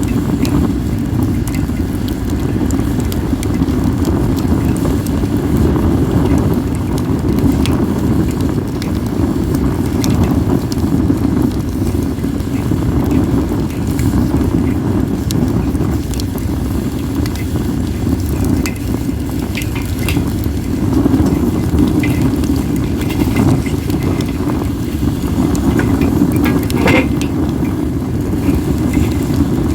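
Acacia and mixed firewood burning in an open fire, with scattered crackles and pops over a steady low rumble of wind on the microphone.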